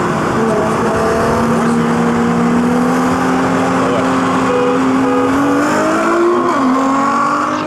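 Two cars at full throttle side by side, heard from inside the VW Golf R HGP 3.6 biturbo, with the Nissan GT-R alongside. The engine note climbs slowly, drops sharply for an upshift near the end, then starts climbing again.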